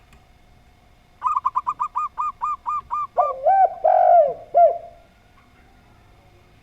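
Doves calling: a zebra dove gives a quick run of about a dozen short, higher coos that slow as they go. A spotted dove then answers with three lower, longer coos, the middle one rough.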